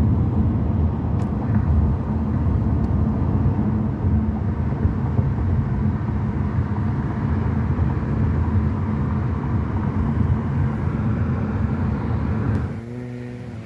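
A car driving along, with a loud, steady rumble of road and engine noise. Near the end it drops suddenly to a quieter engine hum.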